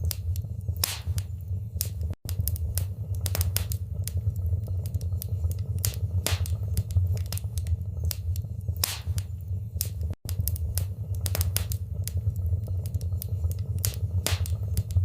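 Wood fire burning in a fireplace: a steady low rumble of flames with frequent irregular crackles and pops. The sound cuts out for an instant twice, about two seconds in and again near ten seconds.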